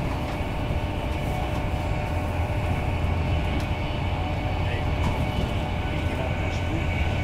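Steady low rumble of wheels on rail, heard from inside a Mark 4 passenger coach of an InterCity 225 train running at speed.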